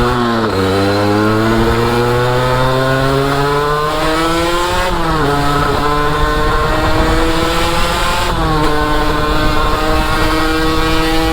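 Derbi motorcycle engine pulling under acceleration, its pitch climbing slowly and dropping sharply at gear changes about half a second in, about five seconds in and about eight and a half seconds in, then running at a steady pitch.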